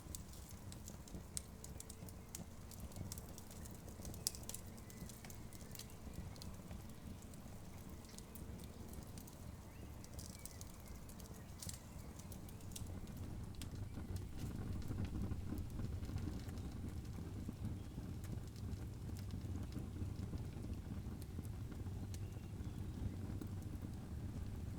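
Wood campfire crackling, with scattered sharp pops, over a steady low rumble that grows louder about halfway through.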